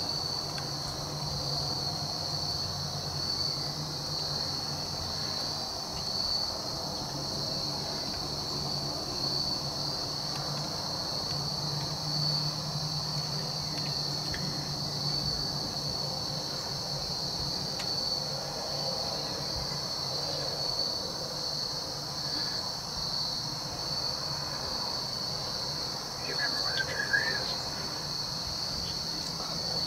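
Steady high-pitched chorus of insects droning without a break, with a brief small sound near the end.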